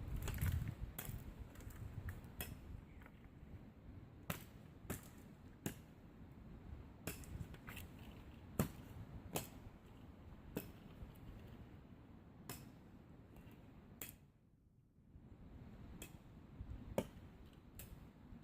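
Axe chopping spruce wood: sharp strikes about one a second, with a short pause about fourteen seconds in.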